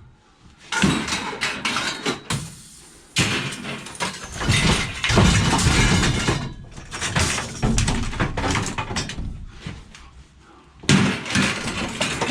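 Scrap metal being handled and tossed, clattering and crashing in several bursts with short pauses between them.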